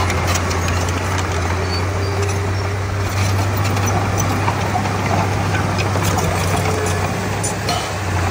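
Komatsu D31P bulldozer's diesel engine running steadily with a constant low drone, light scattered clicks and clanks over it.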